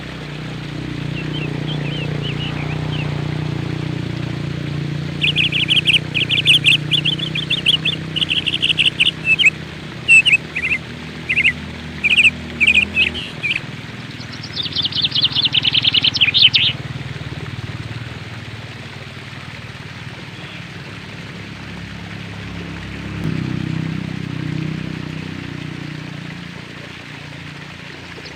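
Small birds chirping in rapid trills, with a run of short chirp bursts through the middle and then a longer trill that falls in pitch. A low rumble swells and fades in the background at the start and again near the end.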